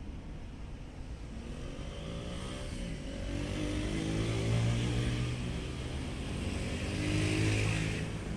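A motor vehicle's engine runs close by, its pitch rising and falling as it accelerates, loudest about halfway through and again near the end.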